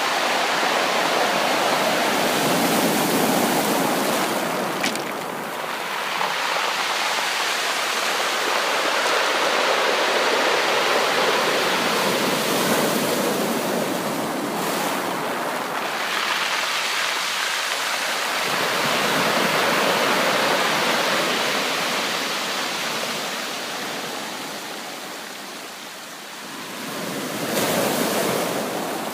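Sea surf washing in, a steady rush of water that swells and eases over several seconds, with a brief lull near the end before another wave surges in.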